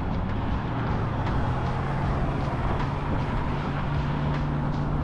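Road traffic noise: a dense, steady low rumble of vehicles, with a steady low hum that settles in about a second and a half in.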